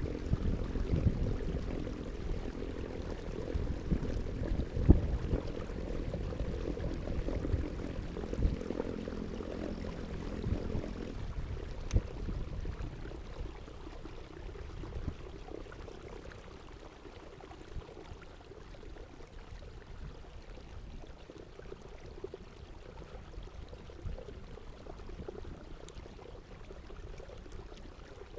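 Moving water splashing and gurgling, louder and fuller through the first dozen seconds, with a few sharp knocks, then quieter.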